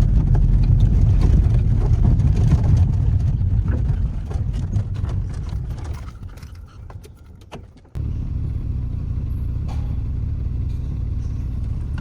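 Car driving on the road: a steady low rumble of engine and tyres that fades over a few seconds, then cuts suddenly, about two-thirds of the way through, to another steady rumble.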